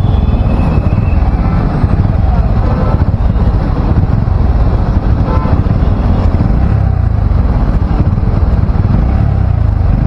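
Motorcycle running on the move, heard as a steady, loud low rumble without pauses.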